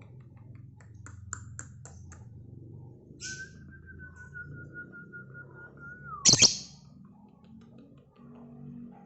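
Birds calling: a long, steady whistle-like note held for about three seconds, then a loud, sharp call about six seconds in, with scattered short clicks and chirps in the first seconds.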